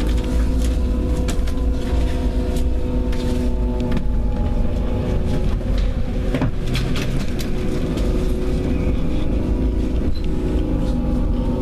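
Bus engine running and the rumble of the bus on the road, heard from inside the passenger cabin. A steady low drone carries a few humming tones, with scattered short rattles and knocks.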